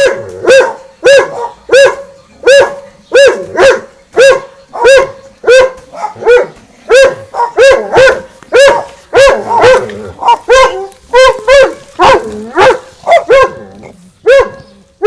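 Dogs barking at each other in a long, steady run of loud barks, a little under two a second, with barks overlapping in places toward the end.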